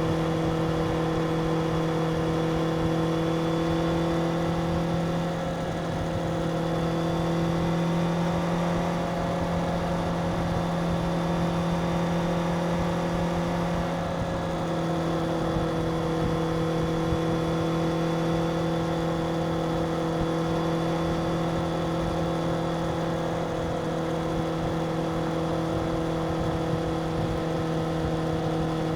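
Stock 2025 Suzuki GSX-R750's inline-four engine running through its stock exhaust at steady, near-constant revs, the pitch drifting only slightly.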